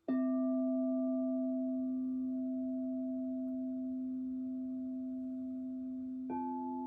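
Crystal singing bowl struck once, ringing on in a long, steady, slowly fading low tone. Near the end a second bowl is struck and adds a higher tone over it.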